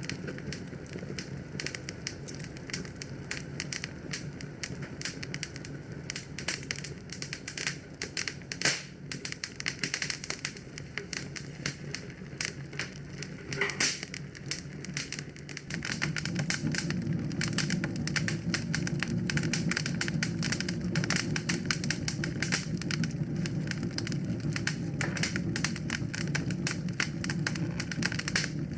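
Wood fire crackling, with many quick pops and snaps at an uneven pace. About halfway through a steady low rumble rises and holds.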